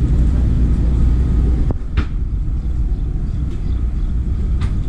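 A car engine running with a steady low rumble that eases slightly about two seconds in, with a few sharp clicks.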